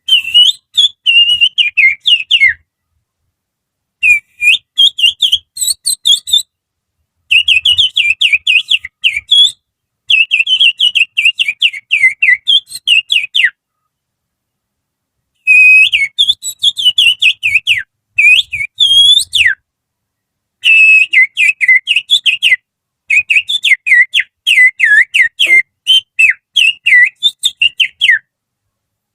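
A person whistling through the fingers to imitate the song of an oriental magpie-robin (kacer). It comes as rapid chains of short, sliding chirps and twitters, delivered in phrases of two to five seconds with short pauses between them.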